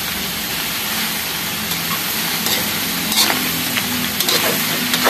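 Chopped pork intestines sizzling in hot oil in a wok, stirred with a spatula. The spatula scrapes against the pan in short strokes several times in the second half.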